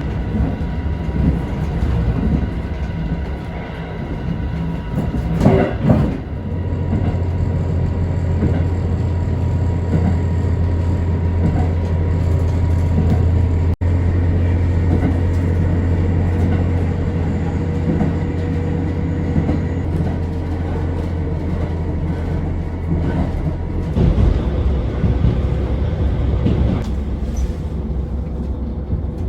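Diesel railcar engine running, heard as a steady low drone that sets in about six seconds in, after a brief louder burst, and eases about 24 seconds in. The railcar is a KiHa 40 series diesel multiple unit.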